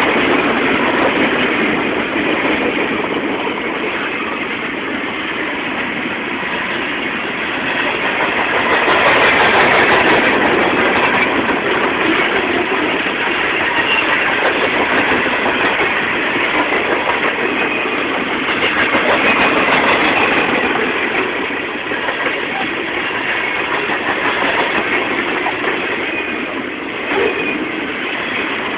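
Freight train rolling past: a steady rumble and rattle of its wheels on the rails, swelling and easing in loudness.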